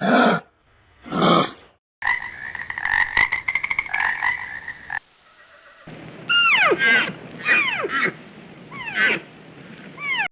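Animal calls in cut-together clips: two short loud calls, then a rapid pulsing trill for about three seconds, then a run of calls that each slide steeply down in pitch.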